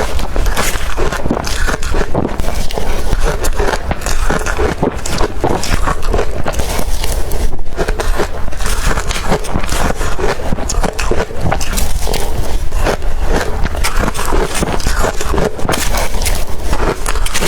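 Blender-crushed ice being bitten and chewed close to the microphone: a dense, irregular run of crisp crunches and crackles, with a brief pause about halfway through.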